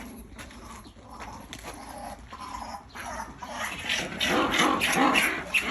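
A group of animals making rapid, chattering, bark-like calls, much louder from about three seconds in.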